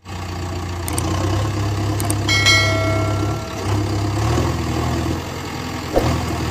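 Vehicle engine idling as a steady low hum, with a single bell-like ding about two and a half seconds in that rings and fades over about a second.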